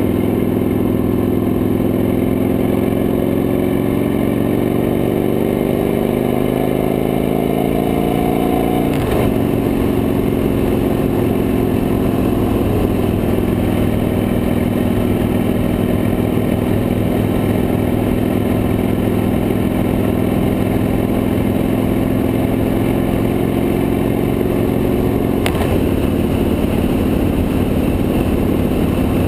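Victory High Ball's V-twin engine under way, its pitch rising steadily for about nine seconds as the bike accelerates, then stepping down at a gear change and running steady at cruising speed. Its note changes again near the end, with wind and road noise throughout.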